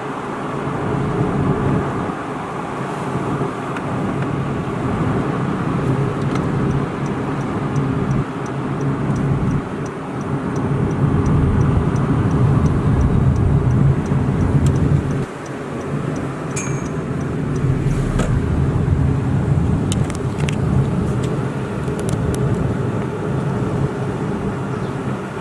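Car engine and road noise heard from inside a moving car, a steady low rumble that swells and eases with speed and drops briefly about fifteen seconds in. A faint, regular ticking runs through the middle of the stretch.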